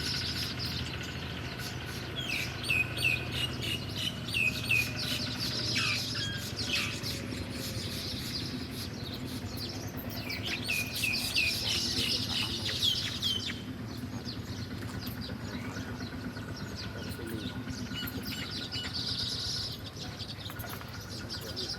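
Small birds chirping in two bouts of quick, short, falling chirps, over a steady low hum.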